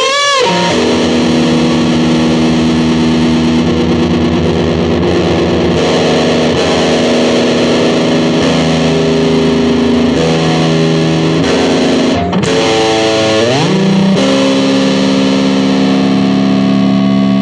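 Distorted electric guitar through effects, holding sustained, droning layered notes; about three-quarters of the way through the pitch slides upward and settles on a new held chord.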